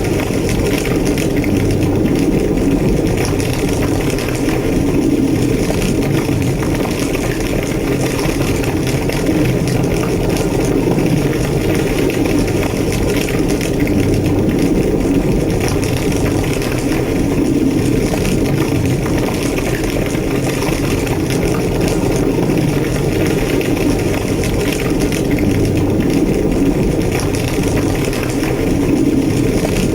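A large fire burning steadily: a deep, constant roar with dense crackling over it, the sound of a big structure ablaze.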